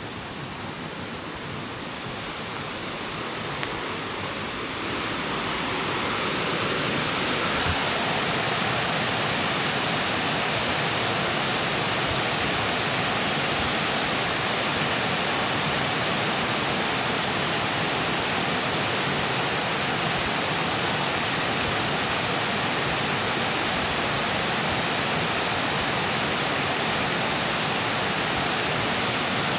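Rushing water of the Leukbach waterfall, growing louder over the first several seconds as it is approached, then a steady, loud roar of falling water.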